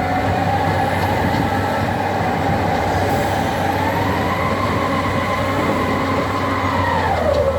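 Tractor loader's engine running with a steady hum and a whine that rises in pitch about four seconds in, holds, then drops near the end.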